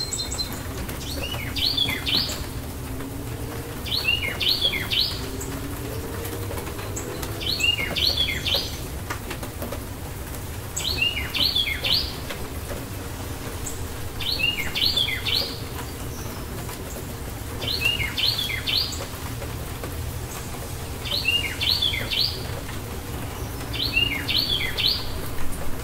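A songbird repeating the same short phrase of quick chirping notes about every three and a half seconds, eight times, over a steady low background rumble.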